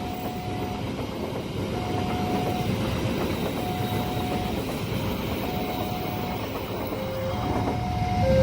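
A train running past a level crossing, a steady dense rumble of wheels on rails. Over it the crossing's electronic warning alarm sounds two alternating notes, high and low, switching about once a second. The sound grows louder near the end.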